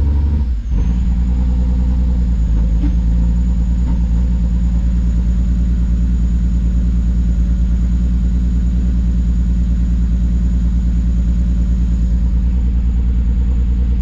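BMW E36 engine idling steadily, just running again after a head gasket replacement. Its idle is unsettled, with RPMs that jump and a popping now and then, which the owner suspects is a vacuum leak.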